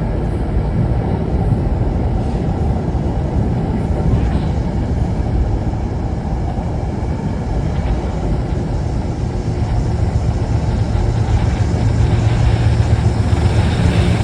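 Train running through the station: a steady low rumble with a deep hum that grows louder near the end.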